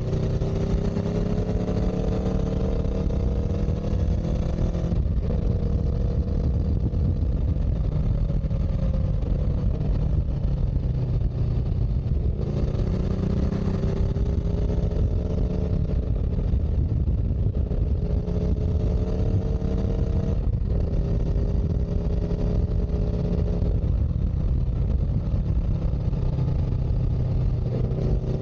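Vehicle engine running under a steady low rumble, its pitch climbing slowly for several seconds and then dropping suddenly, about every seven to eight seconds.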